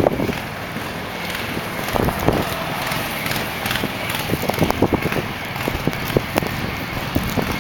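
Blizzard street ambience: wind buffeting the microphone, with irregular short crunches of footsteps in snow.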